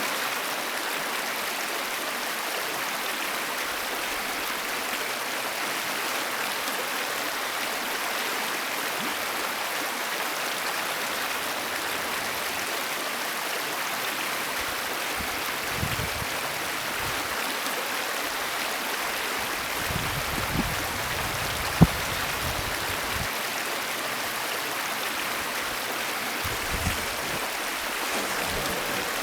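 Steady rush of a fast-flowing stream. A few low thumps come and go past the middle, with one sharp knock about 22 seconds in.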